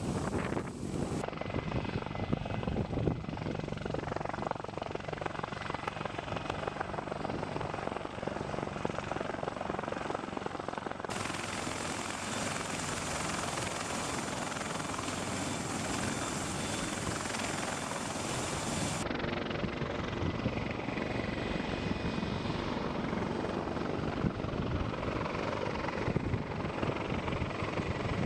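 Helicopter rotor and turbine noise from a heavy-lift CH-53K King Stallion, running steadily; the sound's character changes abruptly about a second in, about 11 seconds in and about 19 seconds in, where different recordings are spliced together.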